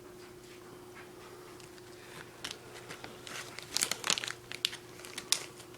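A food bag crinkling as it is handled, in irregular bursts of crackles that start about two seconds in and come loudest in the middle and near the end, over a faint steady hum.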